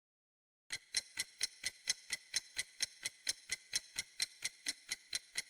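Clock-style ticking sound effect: a steady run of sharp, evenly spaced ticks, about four to five a second, starting just under a second in.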